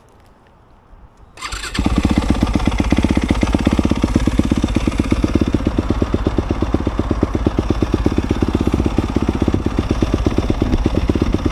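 A four-stroke single-cylinder dirt bike engine starts about a second and a half in, then runs steadily with an even pulse.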